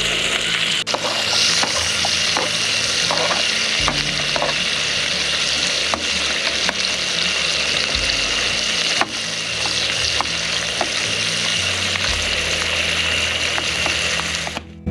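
Steaks frying in a hot pan: a steady sizzle with scattered sharp pops and crackles.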